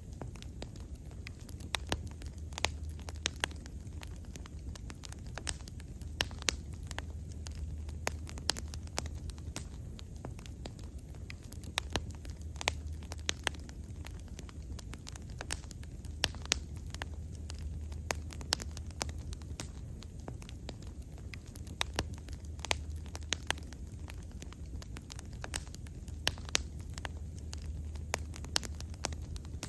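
Wood bonfire burning, with irregular sharp crackles and pops several times a second over a steady low rumble of the flames.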